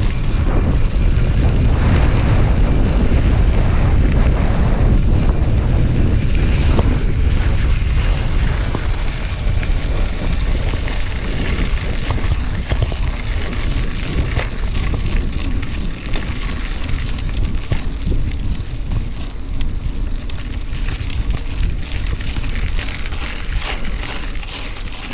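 Wind rushing and buffeting on the microphone of a camera carried on a moving bicycle, strongest in the first half and easing after, with many small clicks and rattles from the bike over the second half.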